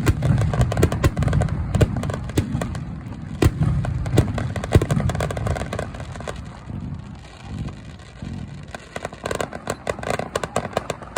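Fireworks finale: aerial shells bursting in quick, overlapping succession, sharp cracks over deep booms, easing briefly past the middle before a dense run of rapid crackling bursts near the end.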